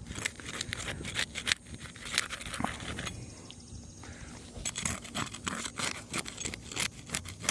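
A metal hand tool scraping and prying under asphalt roof shingles, with scattered small clicks and crackles as the brittle shingles give and granules come loose. There is a quieter spell around the middle.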